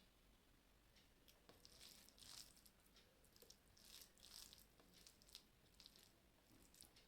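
Faint eating sounds: soft, short, irregular noises of a person chewing and handling food, coming about once a second.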